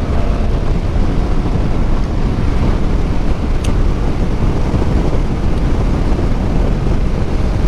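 Steady wind rush buffeting a helmet-mounted microphone on a moving motorcycle, with the bike's engine and road noise running underneath.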